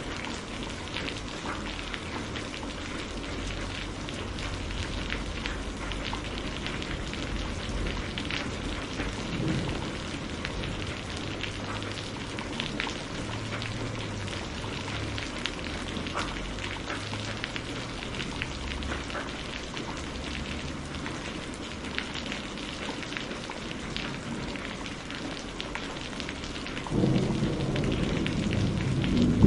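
Steady rain with scattered small crackles and pops of burning firewood mixed in. Near the end a low rumble of thunder sets in and grows louder.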